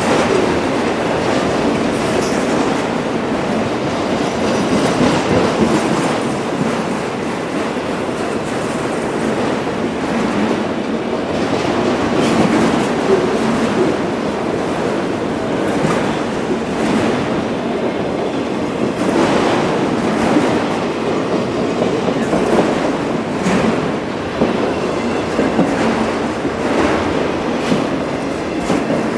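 Empty autorack freight cars rolling past, their steel wheels clattering steadily over the rail joints with scattered sharp clicks.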